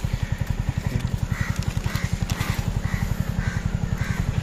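A motorcycle engine idling with a steady, fast low pulse. From about a second in, a bird calls about eight times in an even run.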